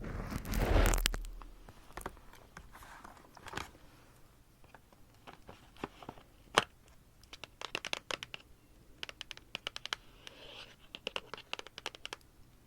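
Paper rustling loudly for about a second and a half, then sparse small scratches and light taps that come in quick runs later on.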